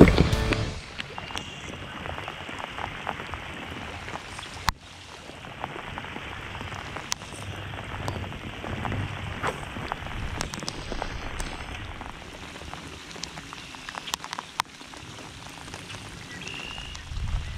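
Steady rain falling on lake water and on the boat, an even hiss with scattered sharp ticks of single drops.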